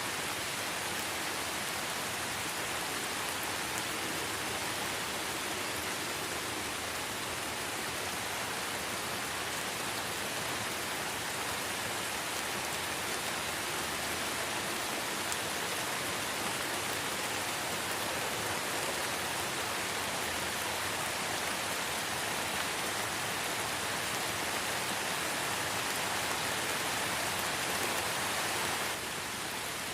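Steady light rain falling in a forest: an even hiss of many small drops, dipping slightly in level near the end.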